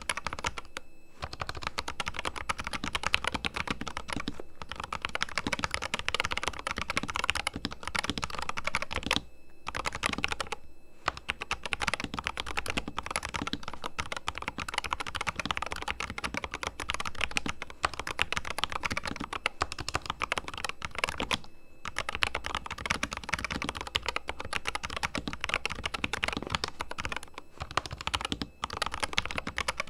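Corsair K100 RGB mechanical keyboard with fully lubricated switches, typed on fast and without letup, with a few short pauses about 9, 11, 21 and 28 seconds in.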